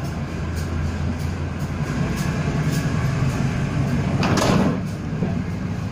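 Local passenger train running along the track, heard from inside the coach: a steady low rumble with faint regular clicks from the wheels. About four seconds in there is a brief loud rush of noise that fades within about half a second.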